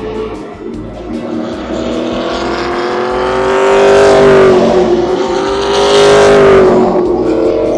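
Trans Am race cars' V8 engines at high revs, getting louder over the first few seconds as they come by. The pitch breaks briefly about halfway through and again near the end.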